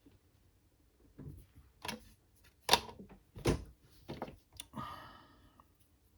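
A series of knocks and clatters as small objects are picked up and set down on a workbench, about half a dozen, the loudest two near the middle, then a short scratchy rustle near the end.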